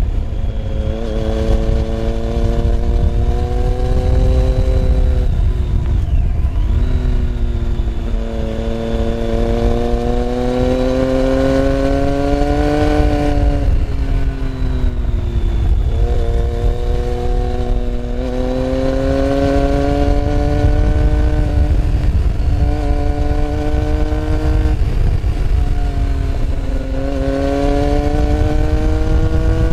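Motorcycle engine heard from onboard while riding, its note climbing slowly and dropping back several times, with heavy wind rumble on the microphone.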